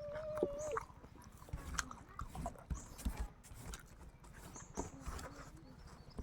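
Close-up eating sounds: chewing with irregular wet smacks and clicks. A short steady tone is heard in the first second.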